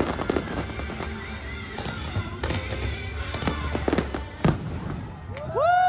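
Fireworks going off during a fireworks show: sharp bangs several times over a steady low rumble, with music playing. Near the end a tone rises and holds.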